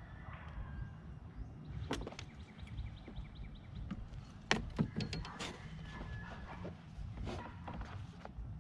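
Wind buffeting the microphone as a steady low rumble, with scattered sharp knocks and clicks, the loudest about halfway through, and a short run of quick faint ticks a little earlier.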